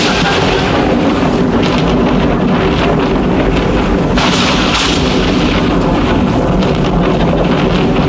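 Royal Enfield Classic 500's single-cylinder engine running loudly and steadily through its new exhaust silencer, a deep, continuous rumble.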